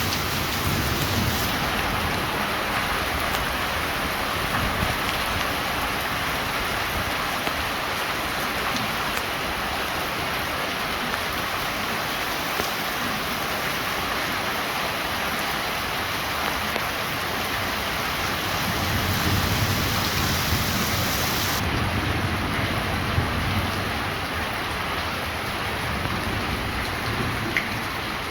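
Heavy monsoon rain falling steadily, a dense even hiss of rain on surfaces. A low rumble swells for a few seconds about two-thirds of the way through.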